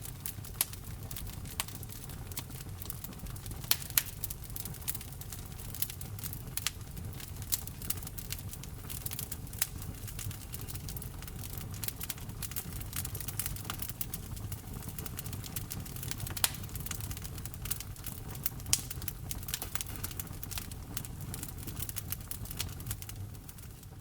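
Wood fire burning in a fireplace: dense, irregular crackling with scattered sharper pops over a steady low rumble of the flames, one of the loudest pops about four seconds in.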